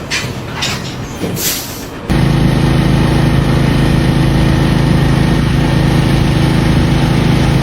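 A large engine running steadily at a constant speed, starting abruptly about two seconds in. Before it come a few short rushing noises.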